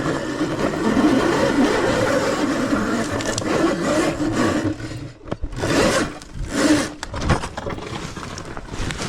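ETM RTR electric dirt bike being ridden on a dirt trail: a steady rough rumble of wind and tyres on the ground. Between about five and seven seconds in it breaks into a few short surges and scrapes.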